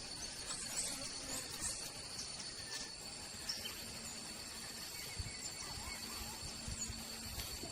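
Rainforest ambience: a steady high insect drone with faint scattered bird chirps over a low background hiss.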